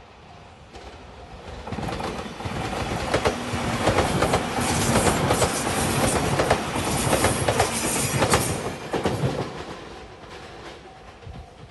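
Anpanman-liveried limited express train passing close at speed, its wheels clattering over the rail joints. The sound builds, peaks in the middle and fades away. A level crossing bell rings at the start and again near the end.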